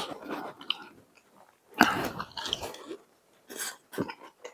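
A person chewing and eating food close to the microphone, in several short bursts; the loudest comes about two seconds in.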